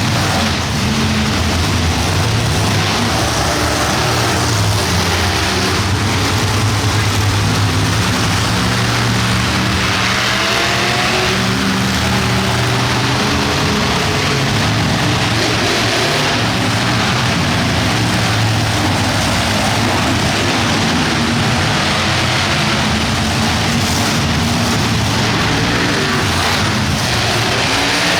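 Monster truck engines running loud and revving, with the pitch rising and falling several times.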